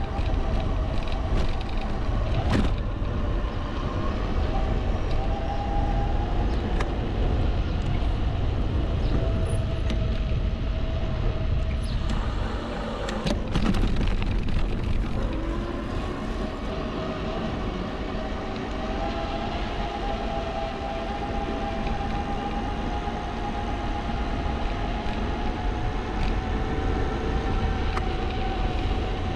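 Riding an e-bike: wind buffeting the camera microphone, with the electric hub motor's whine drifting down and up in pitch as the speed changes. A couple of sharp knocks from bumps, about two seconds in and near the middle.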